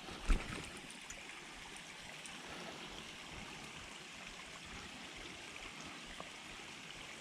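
Steady, faint hiss of rain falling on water, with one dull thump just after the start.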